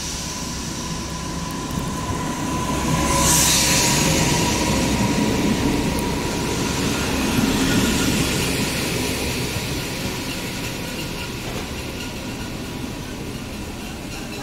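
Electric locomotive and passenger coaches rolling slowly past through a station: a steady rumble of wheels and running gear. The rumble swells as the locomotive goes by a few seconds in, with a brief burst of hiss, then slowly fades as the coaches roll past. A thin steady whine sounds over it in the first few seconds.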